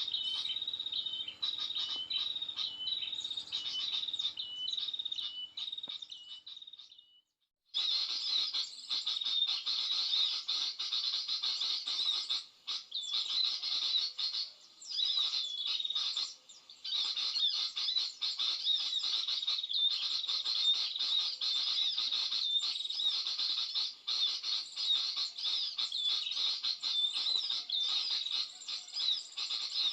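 High-pitched bird chirping, a quick string of short repeated notes, which cuts out to silence about seven seconds in and then comes back as dense, continuous chirping.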